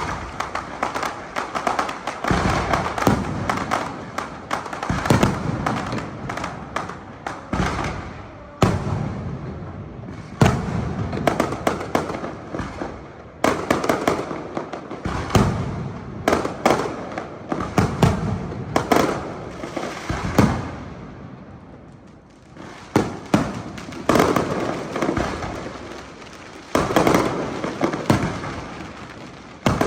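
Aerial fireworks show: a steady run of shells bursting with sharp bangs, some closely spaced, over continuous crackling.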